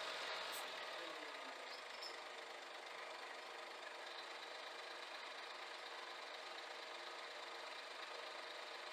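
Scania G410 truck's diesel engine running steadily at idle.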